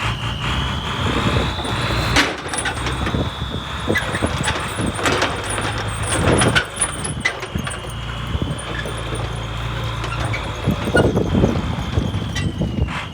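Forklift running, with a steady high-pitched squeal or whine that drifts slightly in pitch, over a low engine rumble and scattered clicks and knocks.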